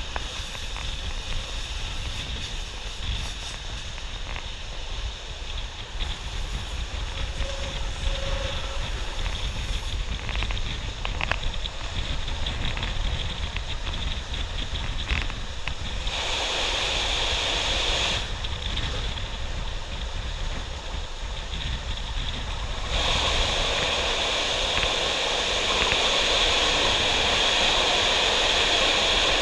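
Steady rush of air over the microphone and the low rumble of a moving train on its track, taken from the side of the train. About two-thirds of the way through the noise steps up, louder and hissier, as the train runs into a tunnel.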